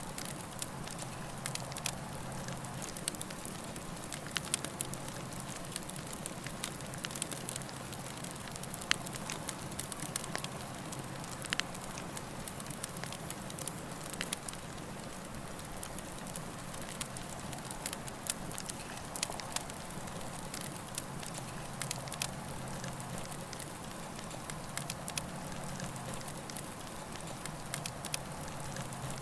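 Campfire burning, with irregular sharp crackles and pops over a steady hiss and low rumble.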